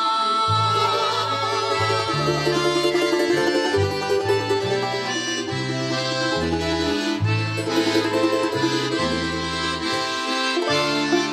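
Accordion playing an instrumental passage of a slow folk song, a melody over bass notes that change about every second, with no singing.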